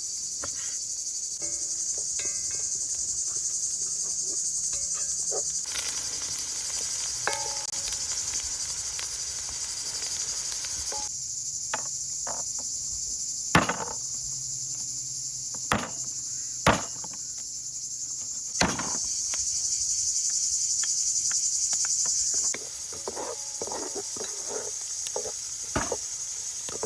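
Steady high-pitched chorus of crickets, with a few sharp knocks and small clicks of work scattered through it.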